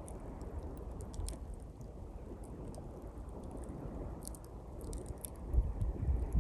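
Small campfire of thin pine twigs crackling with scattered sharp pops, over the low steady wash of sea waves. A louder low surge of surf comes near the end.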